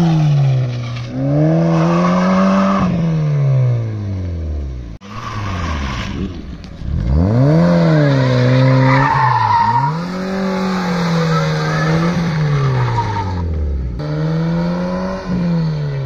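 A car engine revving hard, its pitch climbing, holding and dropping away again and again, with tyres squealing as the car drifts. The sound breaks off sharply for an instant about five seconds in.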